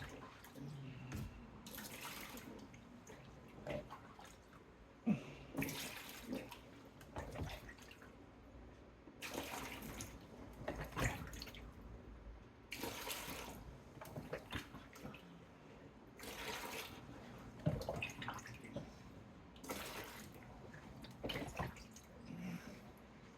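Standing water being scooped out of a Samsung dishwasher tub and poured into a bucket by hand, in separate splashes every few seconds. The water is left in the tub because the dishwasher is not draining.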